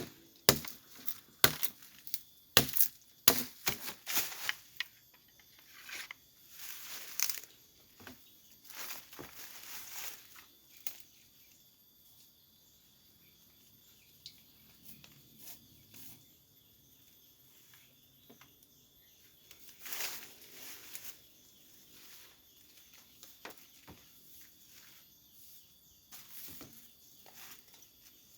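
Sharp knocks of wood being worked, a quick series in the first five seconds, then scattered rustling and crunching of leaves and branches being handled. A faint, steady high whine runs underneath.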